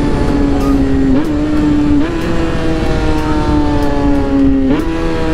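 Motorcycle engine running at high revs and slowly winding down as the bike slows, with three quick jumps up in pitch from downshifts, about a second in, two seconds in and near the end. Wind rushes over the microphone throughout.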